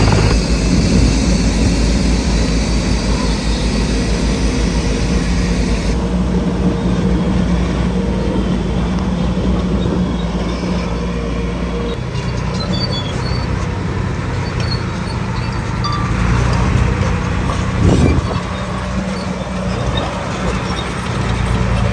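Heavy earthmoving machinery's diesel engine running steadily, its sound changing abruptly twice. A single knock sounds about eighteen seconds in.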